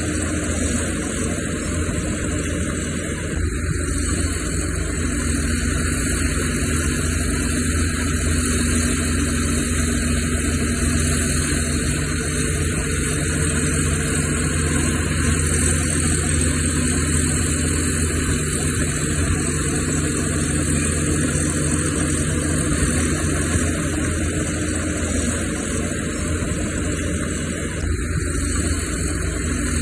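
Heavy diesel earthmoving machinery running steadily. The engine note changes slightly about five seconds in and again near the end.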